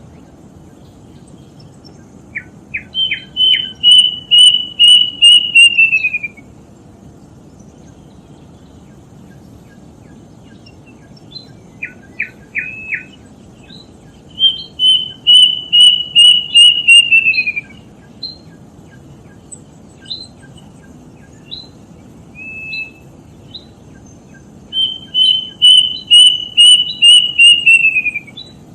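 Kedasih cuckoo singing three times: each phrase opens with a few short notes, then runs into a series of about ten clear whistled notes that slip down in pitch at the end.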